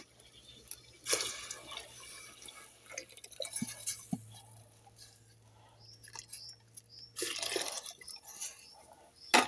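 Liquid splashing and dripping in a pot of boiling water, with scattered small clicks, two short rushing splashes and a sharp knock near the end.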